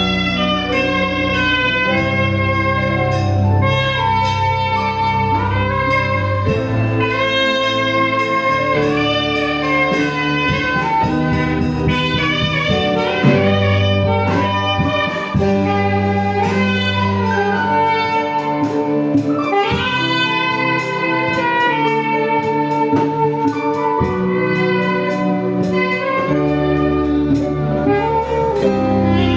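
Saxophone playing a melody over a backing track with guitar and bass.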